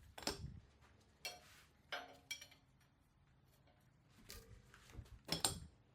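Metal tools and engine parts clinking and knocking as they are handled on a workbench: about six separate short clinks, the loudest near the end.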